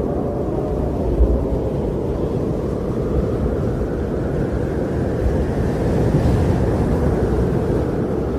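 Wind blowing in a snowstorm: a steady, low, rushing noise that swells into a stronger gust about five seconds in.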